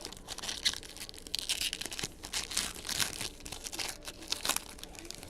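Plastic wrapper of a trading card pack being torn open and crinkled, a run of uneven sharp crackles lasting a few seconds.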